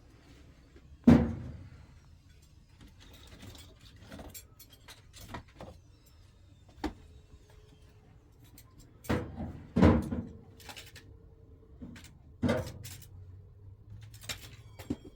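A series of heavy thumps and knocks, the loudest about a second in and three more between nine and thirteen seconds in, with lighter clicks and taps between them.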